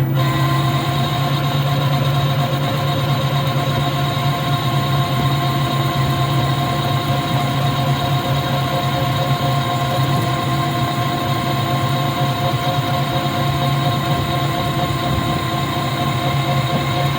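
Steady electric motor hum with a constant whine over it, from the Cybertruck being ridden, even and unchanging in pitch.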